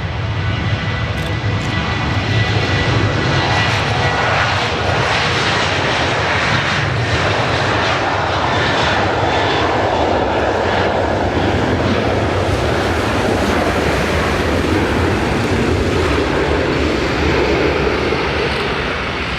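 Boeing 737-700's CFM56-7B turbofan engines on a departing airliner: a steady, loud jet rush. A faint high whine in the first few seconds fades out, the sound swells through the middle and eases a little near the end.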